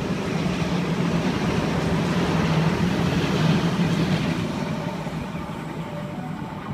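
Sydney Trains A-set (Waratah) electric train passing through the station without stopping: a steady rumble of wheels on rails with a low hum, fading away over the last couple of seconds.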